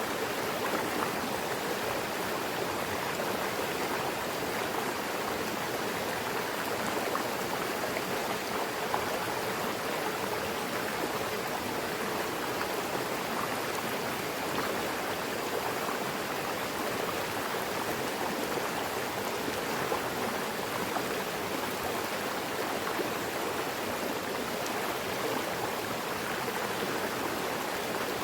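Mountain river rushing over rocks, a steady, even flow of water.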